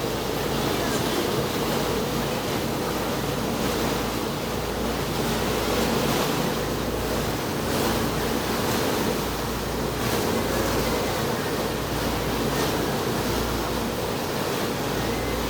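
Boat under way on open sea: a steady rush of water and wind over a constant low engine drone.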